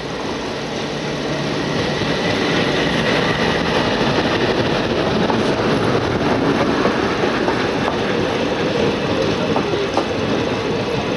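An express train passing close by on the adjacent track: its WDM-3A diesel locomotive goes by, and the sound grows louder about two seconds in. Its passenger coaches then roll past with a steady rumble and clatter of wheels on the rails.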